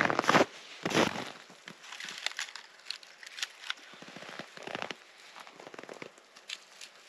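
Irregular clatter of small knocks and crackles, loudest near the start and about a second in, thinning to faint ticks toward the end.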